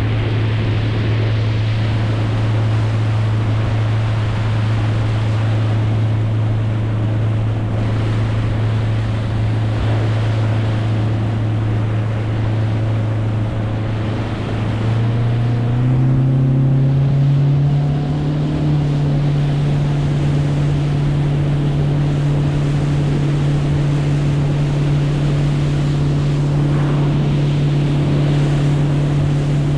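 A boat's motor running steadily under way, with water and wind noise. About halfway through, its note steps up to a higher pitch and holds there, as the throttle is opened a little.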